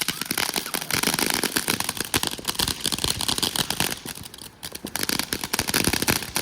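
Consumer fireworks going off: a dense, rapid crackling and popping, easing briefly about two thirds of the way through before picking up again.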